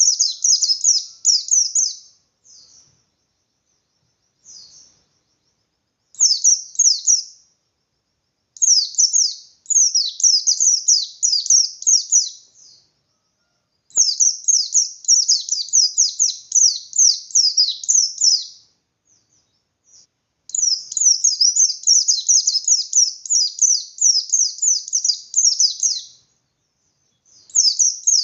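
Pleci (white-eye) singing its 'ngalas' song: rapid runs of high, quick, down-sweeping chirps in phrases of one to six seconds, broken by short pauses. This is the full, insistent singing that keepers play as a lure to rouse other white-eyes to sing and compete.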